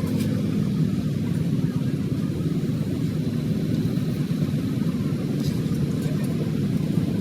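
A vehicle engine running steadily at an even speed, a low continuous hum with no revving.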